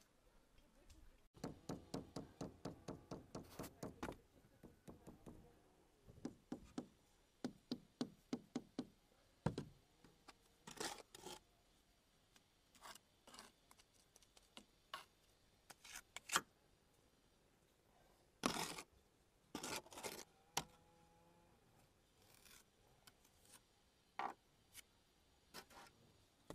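Light tapping and knocking: a quick run of about four taps a second for a few seconds, then slower taps and scattered single knocks.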